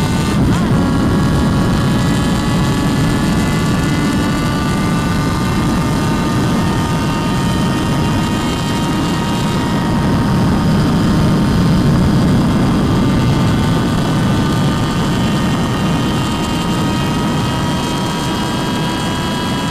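Motorcycle engine running hard at high road speed, its pitch rising slowly and steadily, under heavy wind rush on the microphone.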